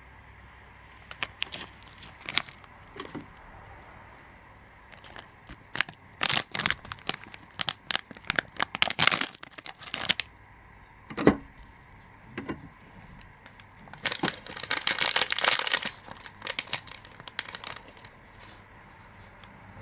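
Plastic packaging being handled: irregular bursts of crinkling and rustling with sharp clicks and crackles, and one loud snap about halfway through.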